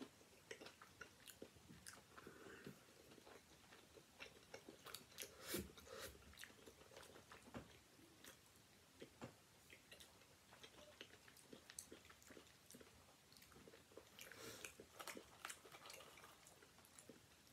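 A person chewing a mouthful of chicken teriyaki and rice, faint and close, with small wet mouth clicks and smacks throughout. A few louder clicks come about five and a half seconds in and again near the end.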